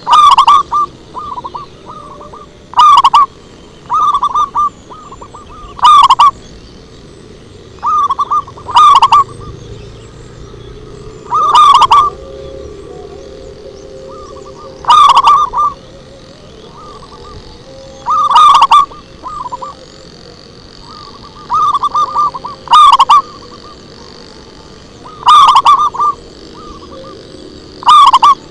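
Zebra dove (perkutut) cooing: a loud, quick run of short notes about every three seconds, as in a lure recording. The calls are so loud that they distort.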